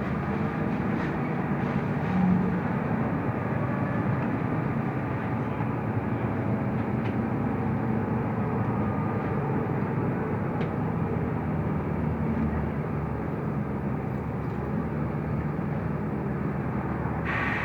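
Mercedes-Benz O345 Conecto LF city bus under way, heard from inside: a steady rumble of engine and road noise, with a brief louder knock about two seconds in.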